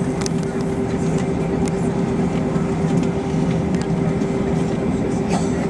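Steady cabin drone inside an Airbus A321 airliner, a constant hum with one held tone and a few faint clicks.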